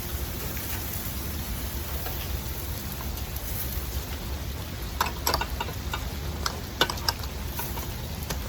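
Food sizzling steadily as it cooks, with a few sharp clicks about five to seven seconds in.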